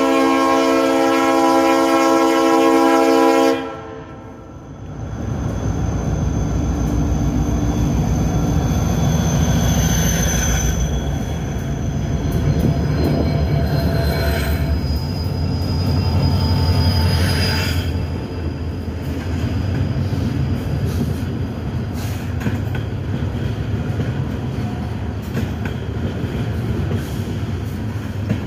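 Train horn sounding one long blast that cuts off a few seconds in, then the locomotive passing close beneath with a heavy, low rumble. Its cars follow, rolling past with a thin, high-pitched wheel squeal.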